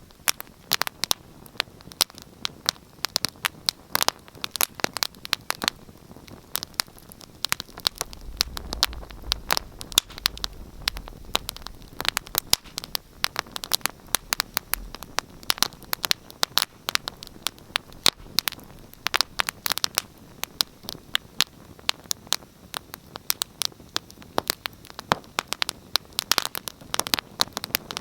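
Wood fire in a fireplace crackling, with frequent irregular sharp pops and snaps over a faint hiss. A low rumble sits under it for several seconds in the middle.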